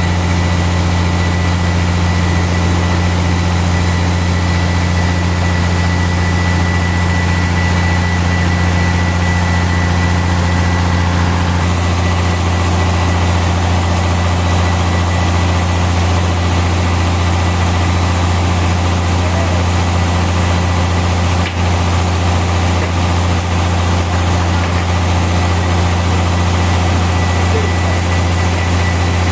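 Sawmill machinery running steadily with a deep, even hum and no change in pitch.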